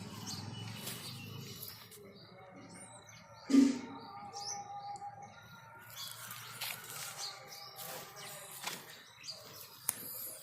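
Small birds chirping in short, scattered calls, with one brief loud thump about three and a half seconds in.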